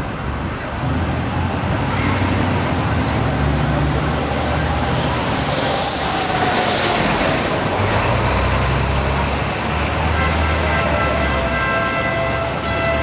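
City street traffic: motor vehicle engines and tyre noise, with a vehicle passing by around the middle. A held pitched tone joins about ten seconds in and runs to the end.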